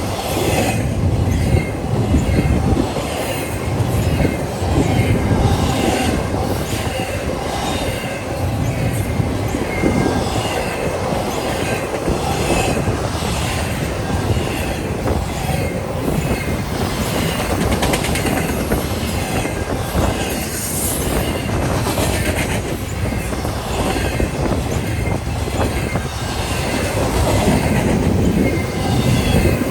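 A train passing close by, its wheels clacking over the rail joints in a steady rhythm of about one beat a second, over a continuous low rumble, with short high wheel squeals.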